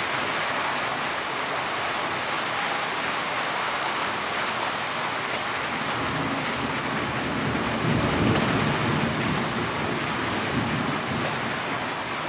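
Heavy rain falling steadily. A low rumble swells about halfway through, is loudest about eight seconds in, and fades.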